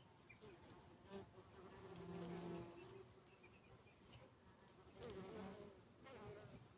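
Honeybees buzzing as they fly close past, faint, with a hum that swells and bends in pitch as individual bees pass, loudest twice.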